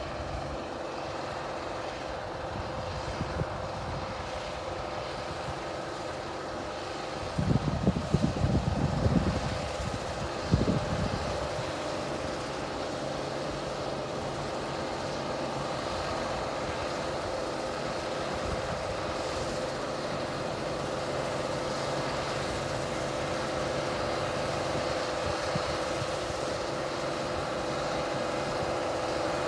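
International Harvester 1470 hillside combine running steadily during the wheat harvest, with a constant whine over its machinery noise. About seven seconds in there are a few seconds of louder low rumbling, then a single sharp knock.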